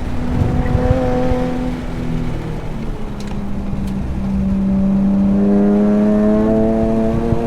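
Nissan 370Z Nismo's 3.7-litre V6 heard from inside the cabin, pulling under load at fairly low revs. The pitch holds, changes about two seconds in, then climbs slowly and gets louder from about halfway.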